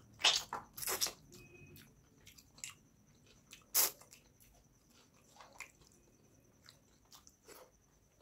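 Close-up mouth sounds of eating rice and fish curry by hand: wet smacking and chewing. The three loudest smacks come about a third of a second in, at about one second, and just before four seconds, with softer chewing clicks in between.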